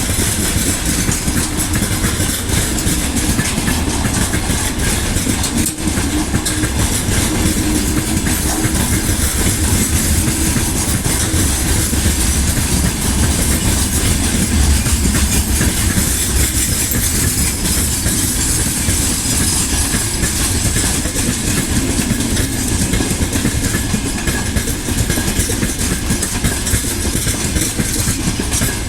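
Freight train hauled by a 2EL5 electric locomotive running on the rails: a steady, unbroken noise of wheels on track.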